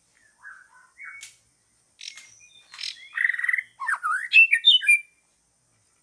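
Songbird calling: a run of varied whistled notes and chirps that sweep up and down in pitch, soft at first, then louder and quicker before stopping about five seconds in.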